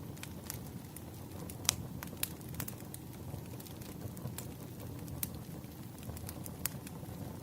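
Wood fire crackling: irregular sharp pops and snaps over a steady low rumble, the loudest pop a little under two seconds in.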